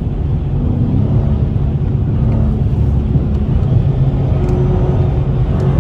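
Car engine and road noise heard from inside the moving car: a steady low rumble, with the engine tone stepping up in pitch about a second in and again near the end.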